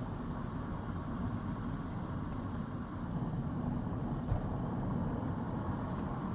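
Car driving along a road: steady engine and tyre noise, a low even rumble, with one brief knock about four seconds in.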